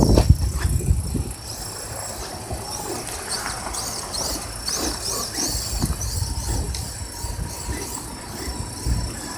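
Electric RC trucks straining against each other in a tug-of-war pull: motors whining in short repeated rising-and-falling bursts over low rumbling and scuffing from the tyres and drivetrain.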